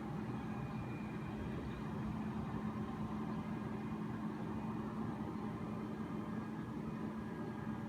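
Flatbed crane truck's engine running steadily, with a constant low hum and fainter higher whining tones above it.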